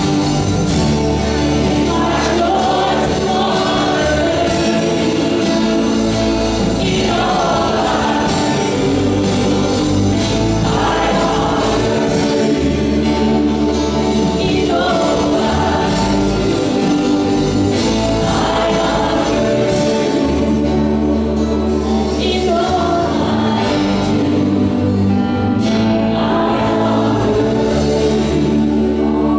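A worship team and congregation singing a gospel-style praise song with a live band: steady bass and chords under recurring sung phrases.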